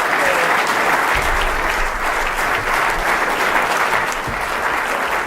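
Concert-hall audience applauding steadily, a dense wash of many hands clapping, easing off slightly near the end.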